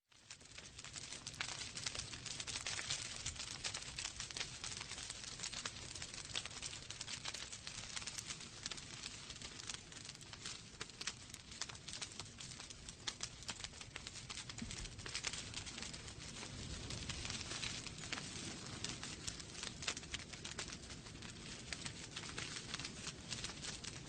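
Wood fire burning in a fireplace, crackling steadily with many small sharp pops and snaps over the soft rush of the flames. It fades in at the very start.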